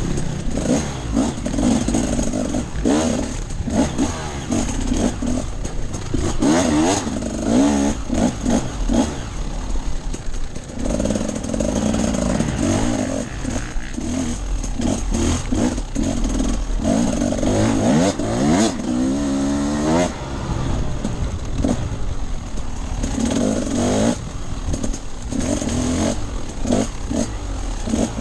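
Off-road dirt bike engine under way, its pitch rising and falling again and again as the throttle is opened and shut, with one steep rev-up a little past the middle, over the rattle of the bike on rough ground.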